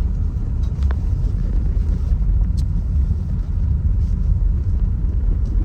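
Steady low rumble of road and engine noise inside a moving car, with a few faint clicks.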